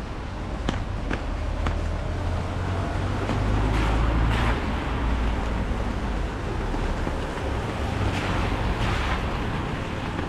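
Rain falling on an umbrella over a wet street, a steady hiss with a low rumble beneath, a few sharp taps in the first two seconds and two swells of hiss around four and eight seconds in.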